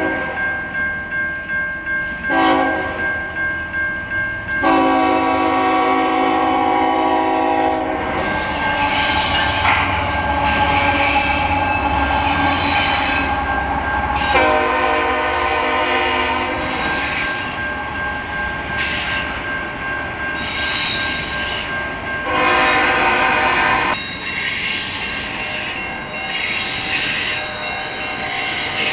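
A freight train's lead locomotive, a GE ES44AC, sounds its horn in several blasts, one short and then three long, while its bell rings at the start. Between the blasts the train rumbles past with steel wheels squealing on the rails.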